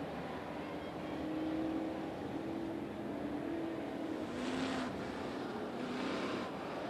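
Dirt-track Late Model race car engines running steadily at a distance, the engine note wavering slightly. A louder rush about four and a half seconds in, and another near six seconds, as cars pass.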